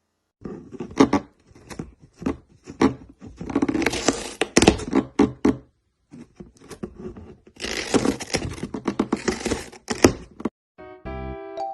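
Irregular rustling and scraping noises with sharp clicks and knocks, in two longer stretches. A piano tune starts near the end.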